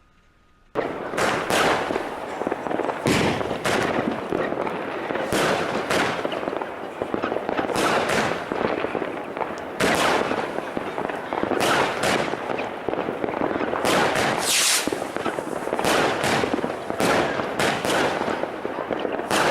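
Train passing close by at speed: a continuous rumble and rush that begins suddenly, with wheels knocking over the rail joints roughly once a second.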